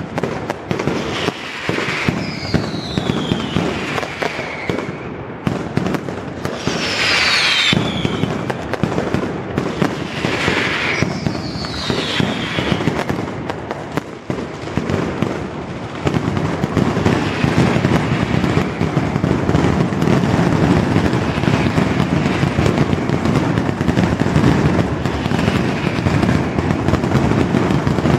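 Mascletà firecracker barrage: a dense rapid rattle of bangs, with several falling whistles in the first half, growing louder and denser from about halfway.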